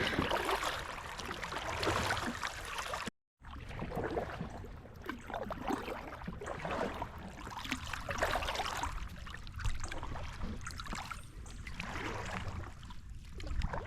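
Kayak moving on a creek: irregular paddle splashes and water trickling against the hull, with the sound dropping out completely for a moment about three seconds in.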